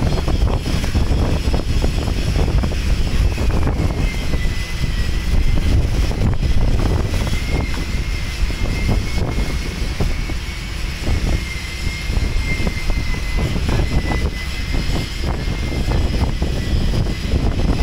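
Strong wind buffeting the microphone in a loud, steady rumble, with a thin high whistle holding steady from about three and a half seconds in.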